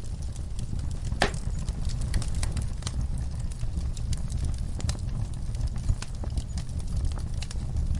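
Fireplace fire crackling: frequent sharp pops and snaps over a steady low rumble, with one louder pop about a second in.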